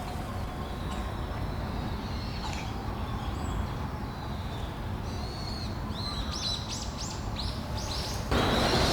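Wild birds chirping: scattered high calls, then a quick run of short sweeping chirps about six to eight seconds in, over a steady low outdoor rumble. Near the end, a louder steady rushing noise cuts in suddenly.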